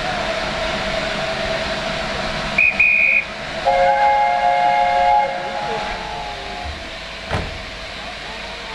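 Steam locomotive whistles over the steady rumble and hiss of a working train: a short shrill toot about two and a half seconds in, then a chime whistle sounding several notes at once for about a second and a half, the three-note chime carried by the LNER A4 Pacific 60009 'Union of South Africa'. A sharp click follows near the end.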